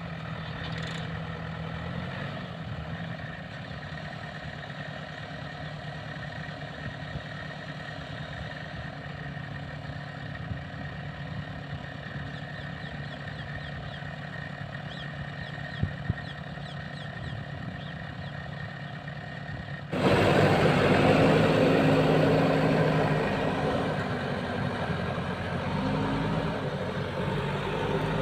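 Diesel engine of a JCB machine running steadily; about 20 seconds in the sound cuts abruptly to a louder engine running.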